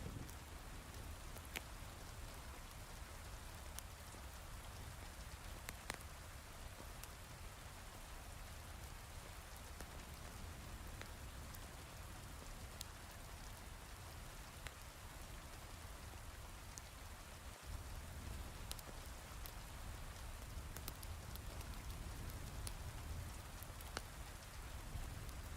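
Heavy rain falling steadily, with a low rumble beneath it and scattered sharp crackles from a log fire in a fireplace.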